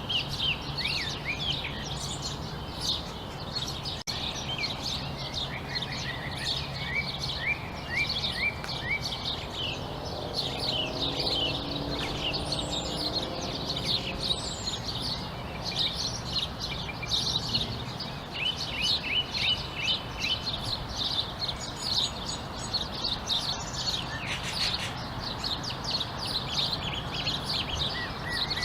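Dawn-chorus-like evening chorus of many small songbirds chirping and trilling over one another, with repeated short trill series and a steady low hum beneath.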